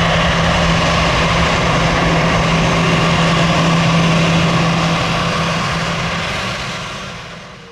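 Jet airliner engines running loud and steady, with a constant low hum under the roar, dying away over the last second or two.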